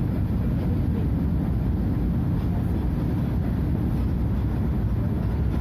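Scania F250HB bus's DC09 five-cylinder diesel engine running with a steady low rumble.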